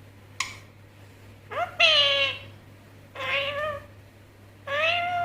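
Indian ringneck parrot calling: a brief call just under half a second in, then three drawn-out, meow-like calls with bending pitch, the first the loudest.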